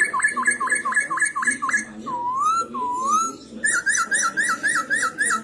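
Black-throated laughingthrush (poksay hongkong) singing loud whistled phrases. It opens with a fast run of about five notes a second, gives two slow upslurred whistles in the middle, and near the end breaks into another fast series of down-slurred notes.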